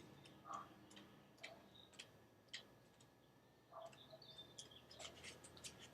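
Faint, irregular light taps and rustles of tarot cards being handled and sorted through.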